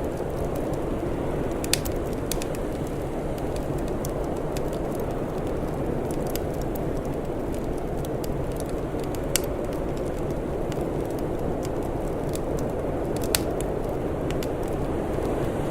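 Fire crackling, with scattered small pops and three sharper pops, over a steady low rushing noise.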